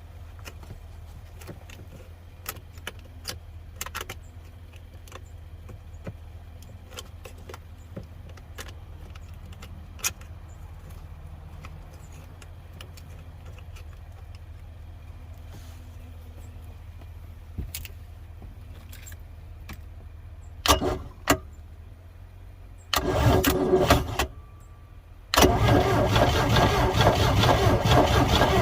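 The 1985 Four Winns 170 Horizon's boat engine is turned over by its starter: two short bumps about 21 seconds in, a longer crank a couple of seconds later, then continuous loud cranking from about 25 seconds in. Before that there is only a low steady hum with scattered clicks.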